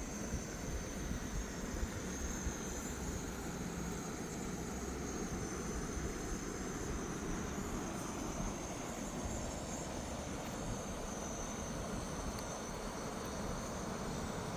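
Fast mountain river rushing steadily over rocks, with a constant high-pitched whine above the water noise.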